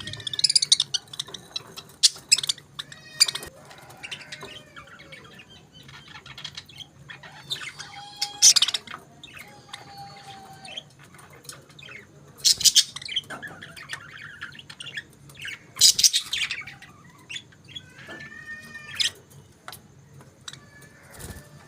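Budgerigars chirping and warbling, broken by several loud, harsh squawks spaced a few seconds apart.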